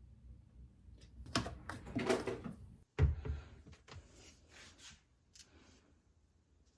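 Objects being handled: a stretch of rustling and clattering, then a heavy thump about three seconds in, followed by a few lighter knocks and clicks.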